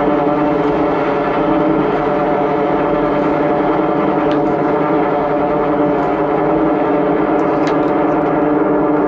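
High-pressure drain jetter's engine and pump running steadily at a constant pitch while a reverse cutter jets through the pipe.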